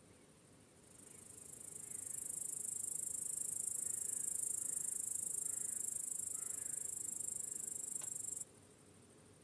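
A dense, high-pitched chorus of crickets chirring. It swells in about a second in, holds steady, and cuts off suddenly near the end, leaving a fainter insect chorus.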